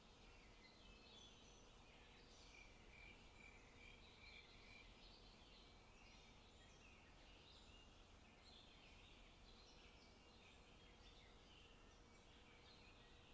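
Faint forest ambience with several small birds singing and chirping at once, including a run of about six even, repeated notes a few seconds in.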